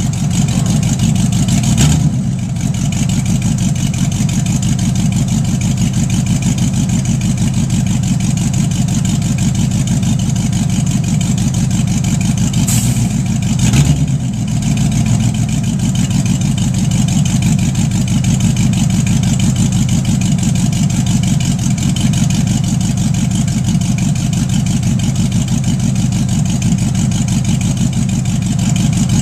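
1934 Plymouth's flathead six running on open headers with no exhaust system fitted, a loud, steady, pulsing idle. Two brief blips come about two seconds in and around the middle.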